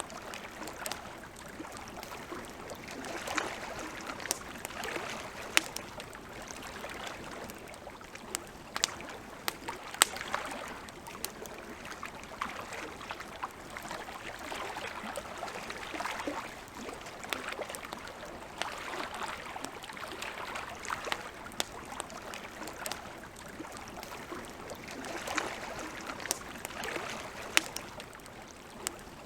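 Wood campfire crackling, with sharp pops scattered irregularly over a steady soft rushing hiss.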